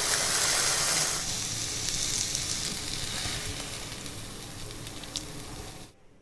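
Baingan bharta (mashed roasted eggplant) sizzling in hot oil in the pan while a spoon scrapes it out. The sizzle fades gradually and cuts off abruptly near the end.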